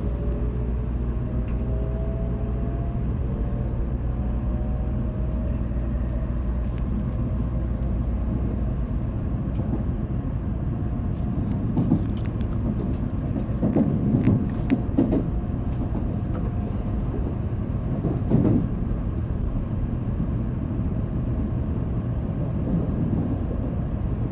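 Shinkansen train running noise heard from inside the passenger cabin as it pulls away. A rising motor whine climbs in the first few seconds under a steady rumble, and there are a few louder knocks and rattles around the middle.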